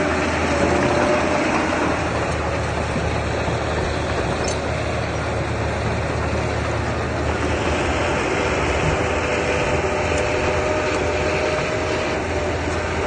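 Diesel engine of heavy earthmoving machinery running steadily, with a low hum.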